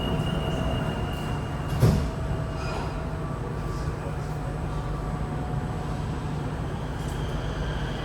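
Sliding doors of a Kawasaki–CRRC CT251 metro car thud shut about two seconds in, followed by the car's steady low hum.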